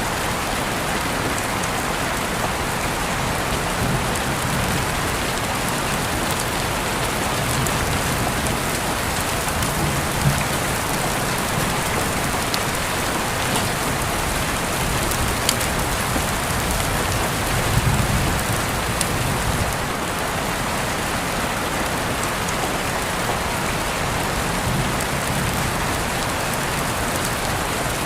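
Steady rain falling on a surface, an even hiss with a few sharper drips now and then.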